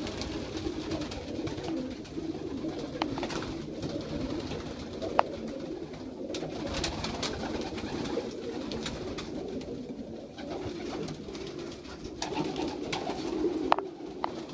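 A loft full of young racing pigeons cooing continuously, with a few sharp clicks here and there.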